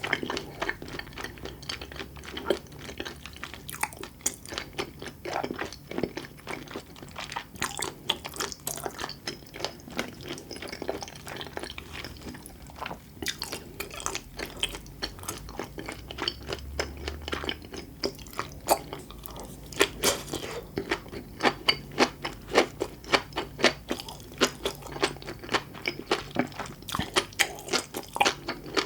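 Close-miked eating: wet chewing with many small crisp pops and clicks, coming quicker and more evenly in the second half.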